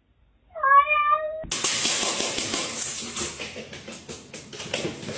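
A cat gives one short meow, slightly rising, about half a second in. Right after it comes a long, noisy hiss-like wash of sound that slowly fades.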